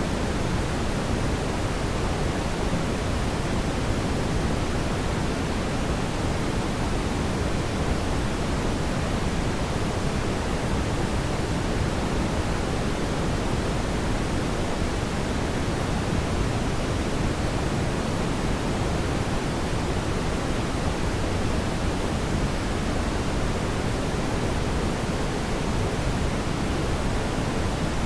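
Fireplace ambience: a steady, even rushing noise, heaviest in the low end, with no distinct crackles or pops.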